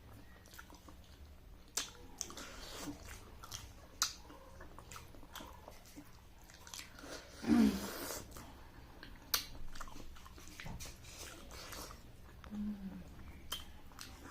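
Close-miked eating sounds: wet chewing and lip smacks with a string of short sharp mouth clicks, and one louder burst about seven and a half seconds in.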